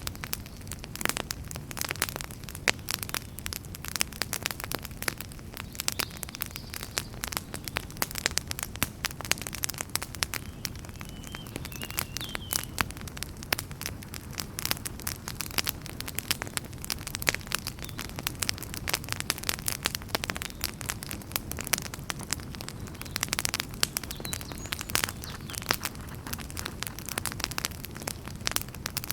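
Wood fire burning in a fireplace, with dense, irregular crackles and pops over a low, steady rumble of flame.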